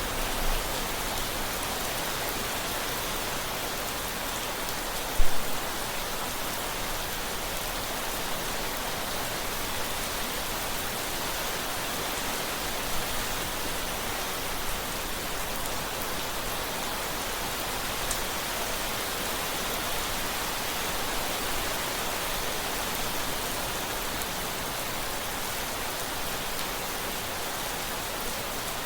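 Steady, dense rainfall hissing evenly on surfaces. About five seconds in there is one brief, loud low thump.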